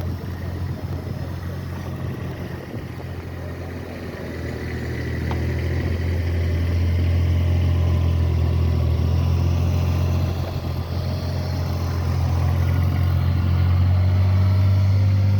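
Snow-clearing tractor's engine running at work, a steady low hum that grows much louder a few seconds in, eases briefly around the middle and swells again near the end.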